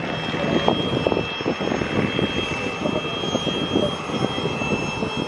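Aerobatic propeller plane's engine running through a display manoeuvre, an uneven crackling rumble that grows louder about half a second in.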